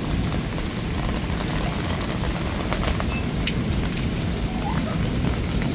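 Heavy rain falling on hard surfaces, a steady wash of noise with many sharp drop ticks scattered through it, over a steady low rumble.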